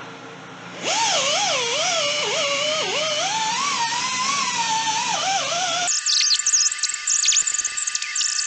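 Angle grinder spinning up and grinding the pitted aluminium cases of a Kawasaki KZ400 engine, its whine dipping and recovering as it is pressed into the metal. About six seconds in the sound cuts abruptly to background music.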